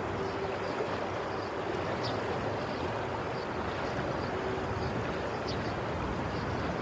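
Waves washing steadily: a constant rushing hiss with no distinct breaks. Under it runs a faint steady hum, and over it come faint high chirps every half second or so.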